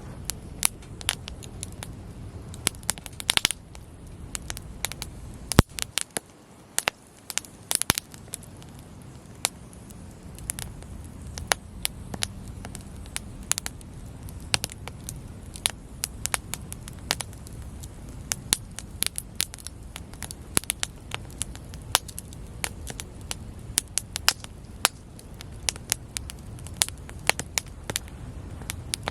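Wood campfire burning, with frequent irregular sharp crackles and pops over a steady low rush of flame. The low rush drops away briefly about six seconds in, after an especially loud pop.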